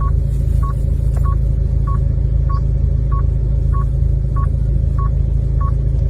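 A short electronic beep repeating evenly, about three every two seconds, over a loud, steady low rumble.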